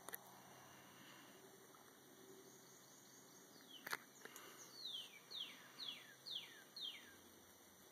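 A bird calling faintly: a run of about six quick falling notes in the second half, over quiet outdoor background. Two sharp clicks come first, one at the very start and one about four seconds in.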